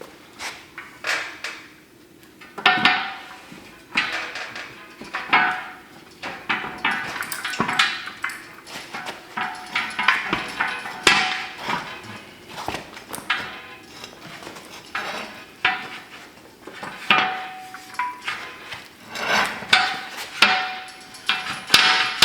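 Irregular metal-on-metal knocks and clanks, some leaving a brief ringing tone, as a hydraulic cylinder is worked into the steel outer tube of a landing-gear leg.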